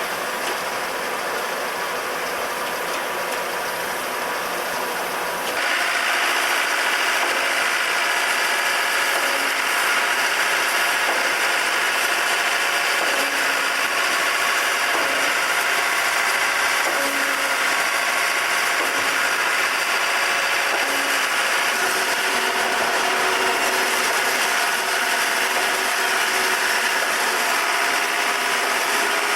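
REED A40HP concrete pump running steadily; about five seconds in it grows louder and hissier and then holds at that level.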